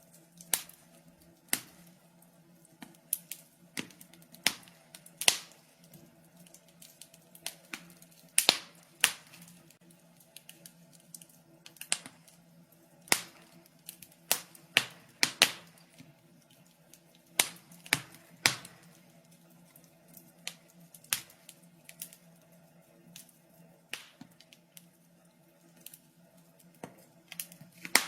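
Wood fire in a fireplace crackling: irregular sharp pops and snaps, sometimes several in quick succession, over a faint steady hum.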